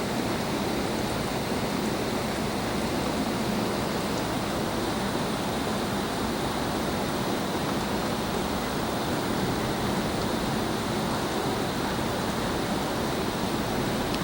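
Heavy rain pouring down in a thunderstorm downpour, a steady even hiss with no break.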